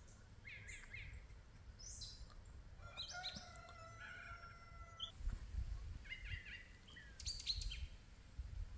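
Faint bird chirping in several short bursts of song, with a couple of longer held notes near the middle. A low rumble comes in about five seconds in and again near the end.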